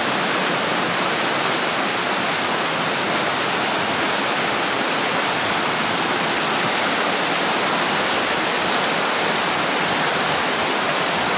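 Heavy tropical storm downpour: a steady, dense hiss of rain and running water.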